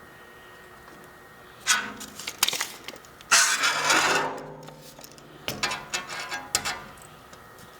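Several short bursts of clattering and scraping of hard objects being handled, the longest and loudest about three seconds in, another cluster near the end.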